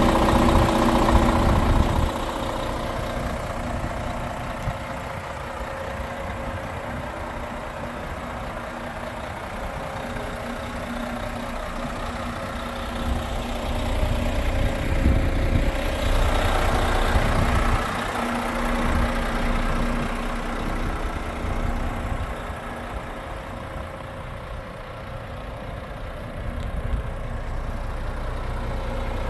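Renault T 460 truck's 11-litre straight-six diesel engine running at idle. It is louder for the first two seconds and again for a few seconds about halfway through.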